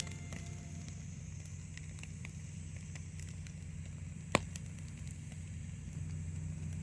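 Wood fire crackling with scattered small pops, and one sharp, louder pop a little after four seconds in, over a steady low hum.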